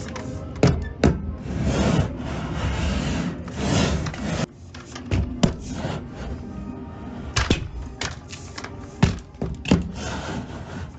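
Irregular scraping and rasping strokes broken by a dozen or so sharp knocks, over background music.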